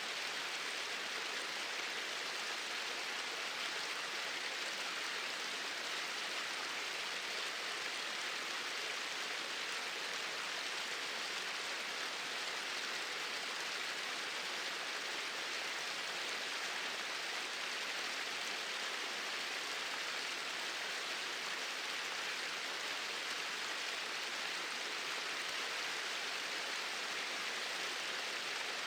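Small waterfall pouring steadily into a stream, a constant even rush of water with no change.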